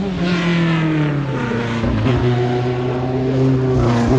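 Racing car engine running hard at high revs, its note dipping briefly twice, about two and four seconds in.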